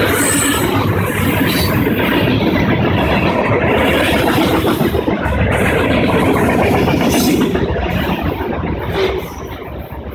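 Freight cars of a CN train rolling past at speed, tank cars and then lumber-loaded centerbeam flatcars, with a steady rumble and clatter of steel wheels on rail. The sound drops away about nine seconds in as the last car goes by.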